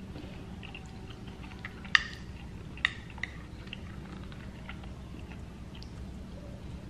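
Close-up chewing and wet mouth sounds from a mouthful of smothered meatballs, mashed potatoes and peas, with two sharp clicks about two and three seconds in.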